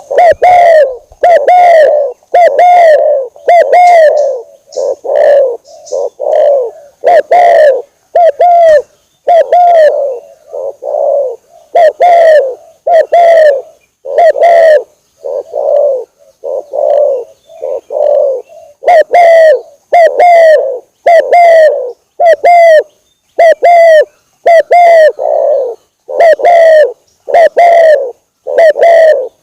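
Spotted dove (tekukur) cooing: a long run of loud, separate coo notes, a little over one a second. It is a lure call recording (suara pikat) played to draw in wild spotted doves.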